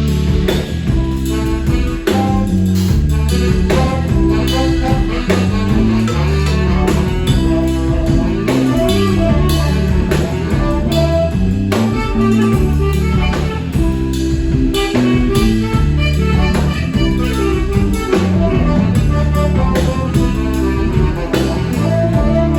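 Live band playing: a drum kit keeping a steady beat under a moving bass line, with a lead instrument carrying a melody.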